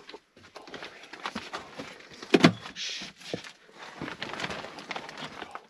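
A door being pushed open, with a string of knocks and scrapes and one loud knock about two and a half seconds in, among footsteps and handling noises.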